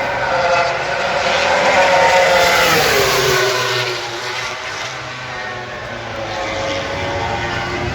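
MotoGP racing motorcycle's four-cylinder engine going past at speed, loudest about two seconds in, its note falling in pitch as it passes; another bike's engine carries on more quietly afterwards.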